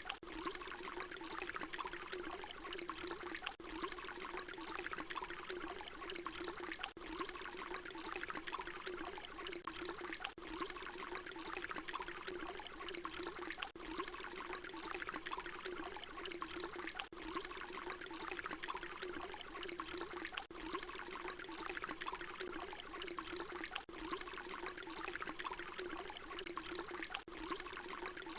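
Water pouring in a steady stream, a continuous splashing rush. A short recording repeats, with a brief dip in the sound about every three and a half seconds.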